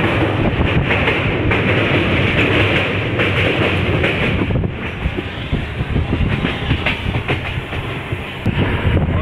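Passenger train running, heard from an open doorway: a steady noise of wheels on rails with a clatter. It is louder while the train crosses a steel truss bridge and drops somewhat about four and a half seconds in, once the train is clear of the bridge.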